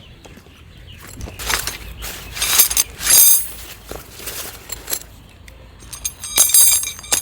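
Objects being handled: irregular scrapes and knocks, with a quick run of ringing metallic clinks about six seconds in.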